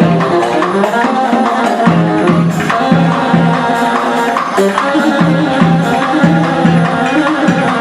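A live band playing music, with drums and percussion keeping a steady beat under a repeating low bass note and melody lines.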